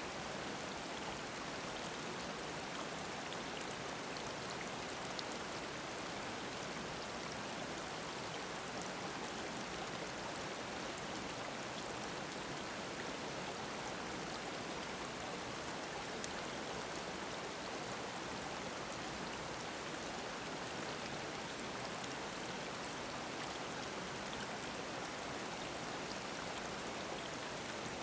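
Mountain stream babbling over rocks: a steady, even rush of water with small splashes here and there.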